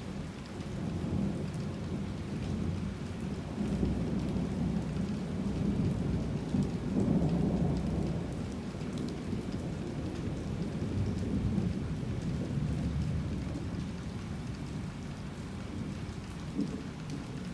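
Heavy rain falling steadily, with a long, rolling rumble of thunder that builds from about a second in, peaks partway through and slowly fades.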